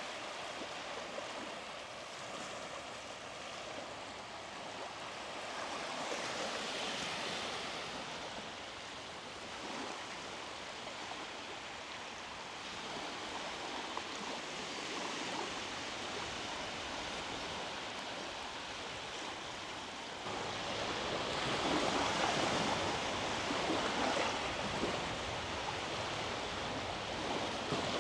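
Small sea waves breaking and washing up the beach, a steady hiss of surf that swells about six seconds in and again, louder, from about twenty seconds in.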